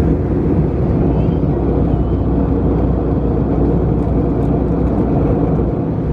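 Steady cabin noise inside an Airbus A319-111 airliner: its CFM56 jet engines and the airflow heard as a low, even roar.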